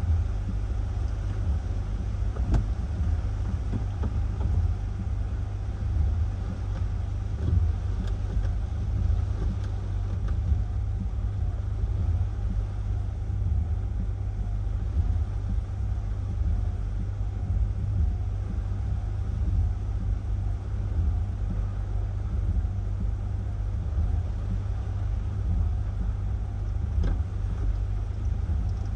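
Hurricane-force wind buffeting the microphone: a heavy, fluttering low rumble that swells and eases with the gusts, with a few faint ticks.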